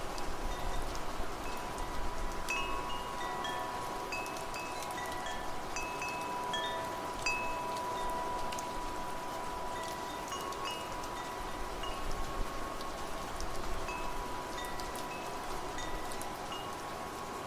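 Wind chimes ringing, struck at irregular moments, with several short high notes and a long held lower tone, over a steady hiss of rain.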